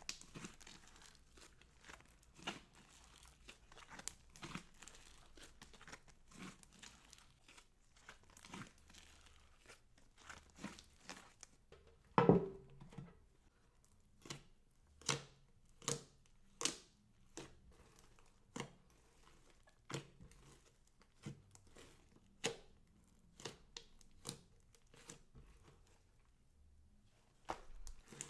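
Slime being squished and stretched by hand: irregular sticky pops and crackles, with one louder squelch about twelve seconds in.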